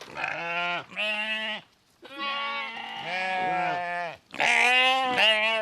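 Sheep bleating: four bleats in a row, the third one long, about two seconds.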